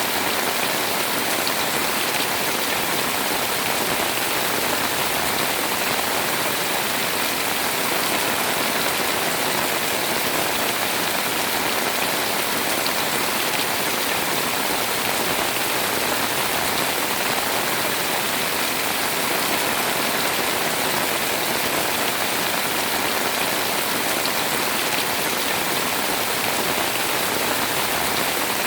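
Heavy rain pouring steadily on a house, an even, unbroken hiss of rainfall.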